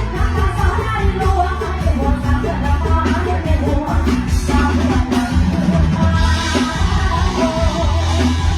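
Live mor lam band music with a singer, carried by a heavy, steady bass.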